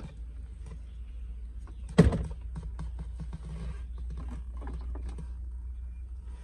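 Metal knocks and clatter from hands-on work on an old, rusty car, with one loud clank about two seconds in, over a steady low hum.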